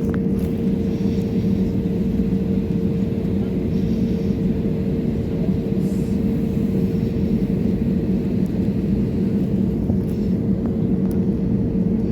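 Airbus A320neo cabin noise heard from an economy seat: the engines and airframe give a steady rumble with a constant hum that holds level throughout.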